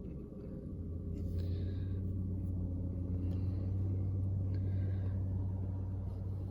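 A motor vehicle's engine running close by: a low, steady hum that grows louder about a second in and then holds.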